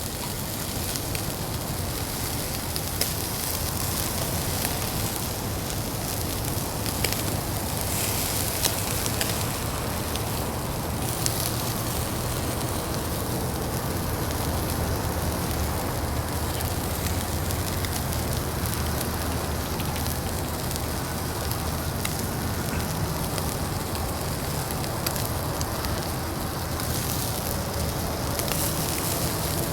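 Fire burning in a Uniflame Fire Grill fire pit: a steady hiss with a few sharp pops.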